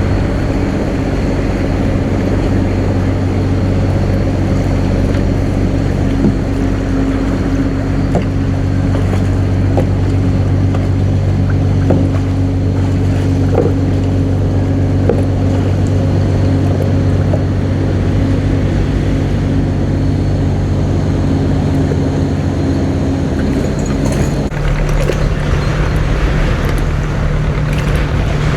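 Boat engine running steadily over a haze of water and wind noise; about 24 seconds in, its note changes to a different steady hum.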